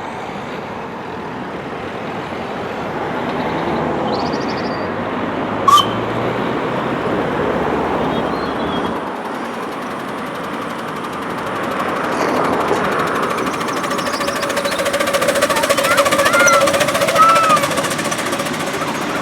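Miniature railway locomotive and train running: a steady rushing, rattling noise with a single sharp click about six seconds in and a few short squeaks near the end.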